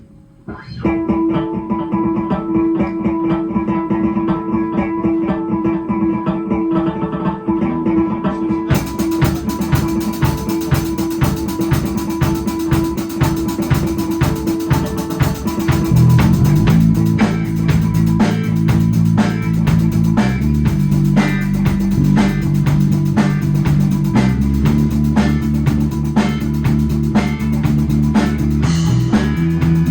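Instrumental rock music led by guitar. It starts about a second in, drums with cymbals join about nine seconds in, and a heavier bass line enters around sixteen seconds.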